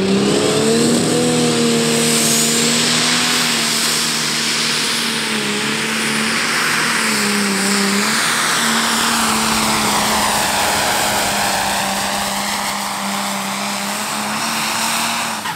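Pro Stock pulling tractor's single-turbo diesel engine running flat out under full load while it drags the sled down the track. It makes a loud, steady drone at constant high revs, with a heavy rushing hiss over it.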